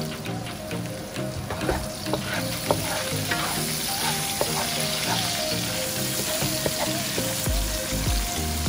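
Chopped shallots, garlic and chilies sizzling in hot oil in a nonstick pan while a wooden spatula stirs and scrapes them. The sizzle grows stronger about three seconds in, with soft background music underneath.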